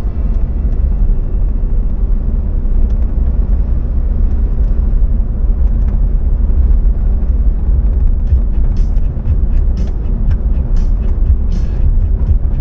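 Vehicle driving: a steady, loud low rumble of engine and road noise, with a few sharp clicks or rattles in the second half.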